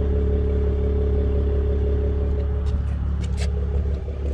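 2020 Toyota Camry XSE's 3.5-litre V6 purring through a muffler-delete exhaust, a steady deep drone. A few short clicks about three seconds in.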